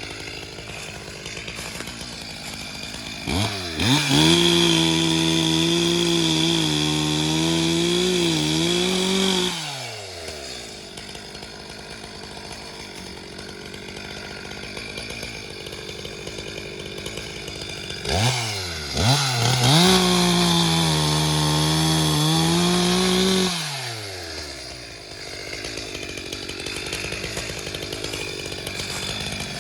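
Chainsaw revved up to full speed twice, each time for about five or six seconds, while cutting firewood. Its pitch dips a little under load, and it drops back to a lower idle between and after the cuts.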